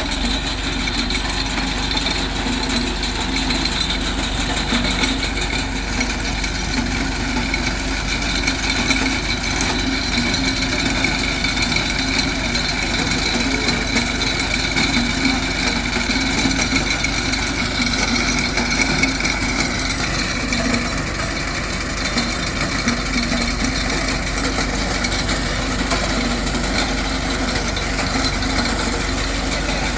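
TAFE Massey Ferguson tractor's diesel engine running steadily.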